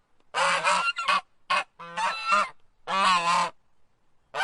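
Goose honking: about six honks in quick succession, some clipped short and some drawn out, with brief gaps between them.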